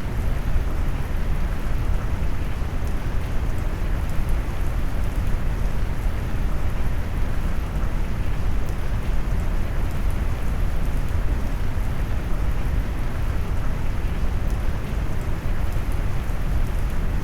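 Steady rain mixed with brown noise: a deep, even rumble of noise with the patter of rain on top, the highs rolled off, no changes.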